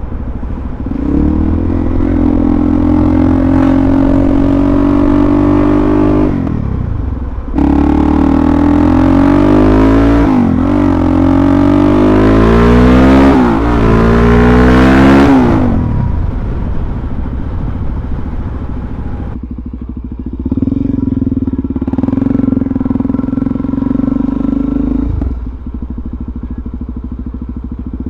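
Suzuki DR-Z400SM's single-cylinder four-stroke engine under way: it runs steadily, drops off briefly, then climbs in pitch through a couple of gear changes in the middle before falling away as the throttle closes, and settles to a steadier lower note.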